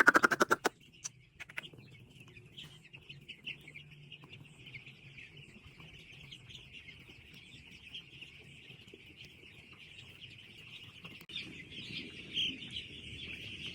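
A flock of two-day-old broiler chicks peeping continuously in a dense chorus that grows louder near the end. A quick rattle of sharp clicks comes right at the start.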